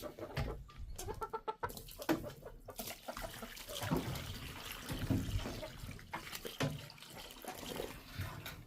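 Backyard chickens clucking, a run of short, scattered calls.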